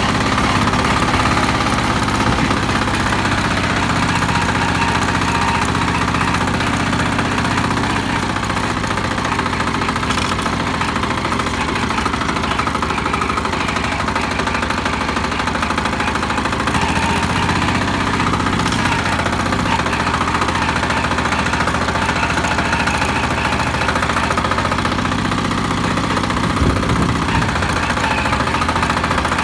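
Motor Sich walk-behind tractor's engine running steadily under load as the machine drives along, with a fast, even knocking beat; the engine speed shifts slightly a couple of times.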